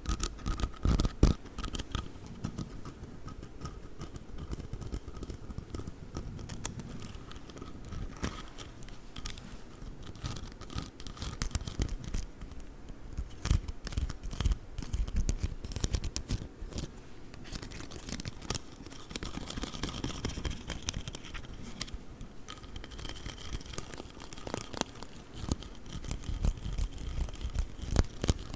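Close-miked tapping, scratching and clicking on an inch rule: a dense, irregular run of sharp clicks and scrapes.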